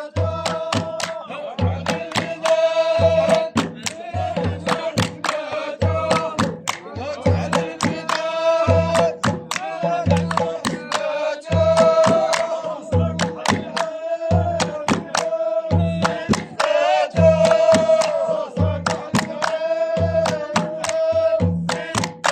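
Saharan folk heritage music: singing with long held notes over a steady beat of deep drum strokes and sharp percussive hits, about two drum strokes a second.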